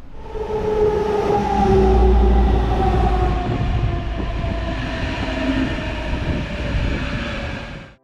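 Electric train running with a heavy rumble, its motor whine falling steadily in pitch as it slows down.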